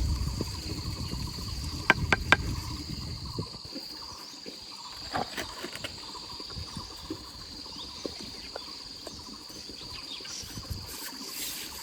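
Steady high-pitched insect chorus, crickets or similar, running throughout. A low rumble underneath fades out about three and a half seconds in, and three sharp knocks come close together about two seconds in.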